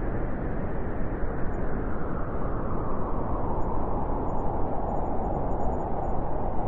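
Wind blowing steadily, a dense, even rushing noise.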